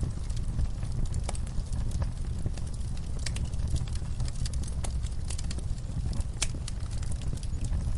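Wood fire burning in a fireplace, with a steady low rumble of flame and irregular crackles and pops from the burning logs.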